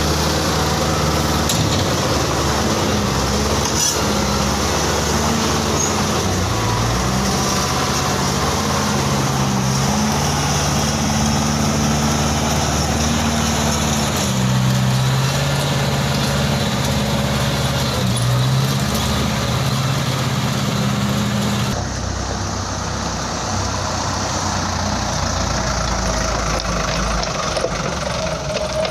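Toyota Dyna dump truck's diesel engine running steadily, its pitch stepping up and down repeatedly; the hissing higher noise drops away a little past two-thirds of the way through.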